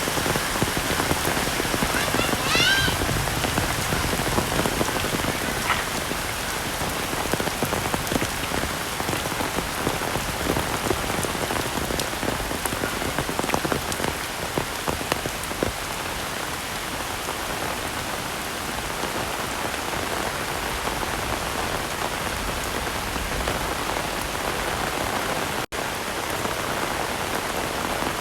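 Heavy rain falling steadily, a dense even hiss of drops. About two and a half seconds in, a short high call rises and falls over the rain, and near the end the sound cuts out for an instant.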